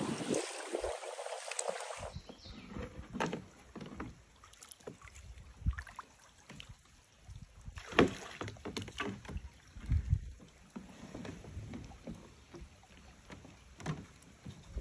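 Bamboo river raft being poled along, with irregular small splashes and knocks in the water, the sharpest a few seconds apart. A rushing noise like wind on the microphone fills the first two seconds.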